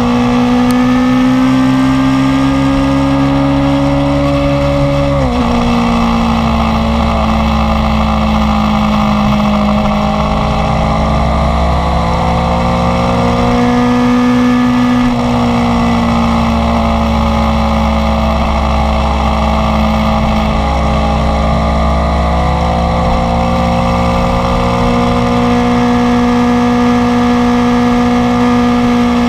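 Inline-four sport motorcycle engine running under way, its pitch climbing gently for about five seconds and then dropping sharply at a gear change. The pitch dips again about halfway through and then holds fairly steady.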